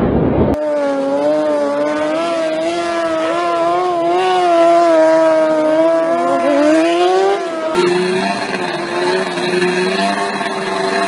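Motorcycle engine running at high revs, its pitch wavering up and down and climbing about seven seconds in. Then, suddenly, a second engine takes over at a steadier pitch.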